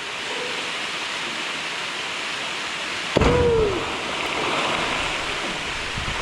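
Waterfall rushing steadily into a rock pool, a constant noisy hiss of falling water. About three seconds in, a sudden louder sound cuts through it: a low thud with a short sliding tone.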